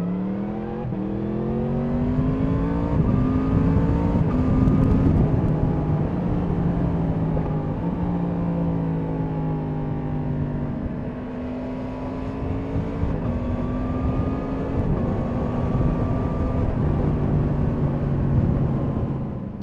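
Yamaha MT-10 SP's crossplane inline-four engine accelerating hard: the revs climb and drop back at gear changes about one and three seconds in, then hold a fairly steady cruise with small rises and falls, under a steady rush of wind noise.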